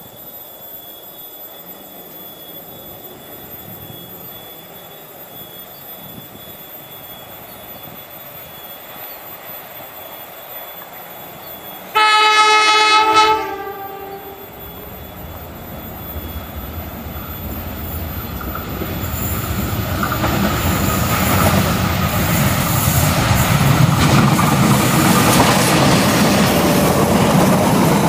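A diesel locomotive's horn sounds one loud blast of about a second and a half, a warning as the train approaches. Then the locomotive and its passenger coaches run closer, the engine and the wheels on the rails growing louder over the last ten seconds until the train is passing close by.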